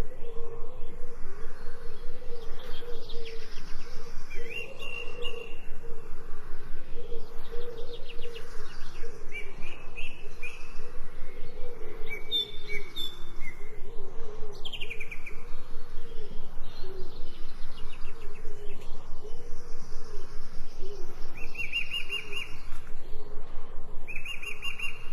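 Birds chirping and tweeting in short repeated calls, over a steady background pulsing about four times a second.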